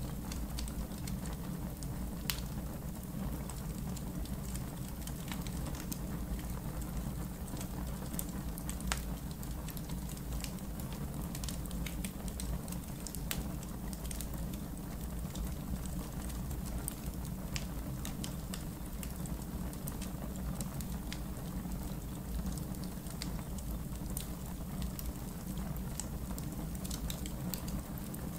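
Campfire in a fire pit crackling: scattered sharp pops and snaps over a steady low rumble of the burning fire.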